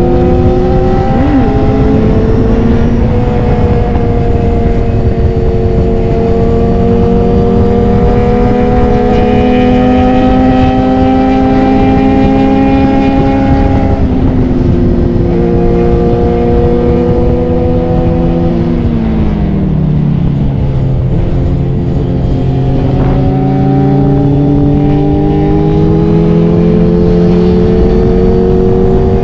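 Sport motorcycle's engine running under way, its pitch climbing slowly as it pulls, dropping sharply about fourteen seconds in at a gear change, sagging a few seconds later and then climbing again. A steady rushing noise sits underneath throughout.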